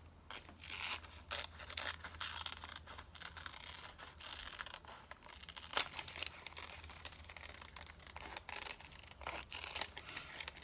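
Scissors snipping through glossy magazine paper in an irregular run of small cuts, with the paper rustling as it is turned.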